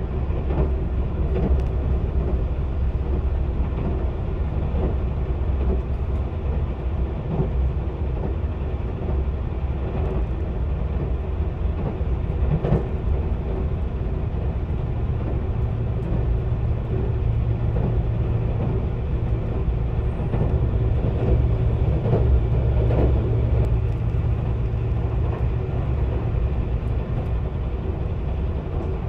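Shinkansen bullet train running at speed, heard from inside the passenger car: a steady low rumble of wheels and running gear. A low hum joins about halfway through and drops away near the end.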